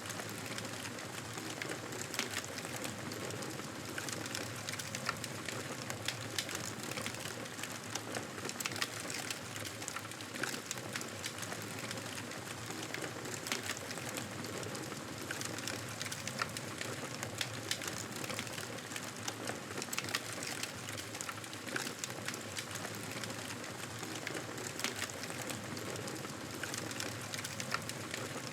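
Wood fire crackling in a fireplace: a steady hiss dotted with frequent small pops and snaps.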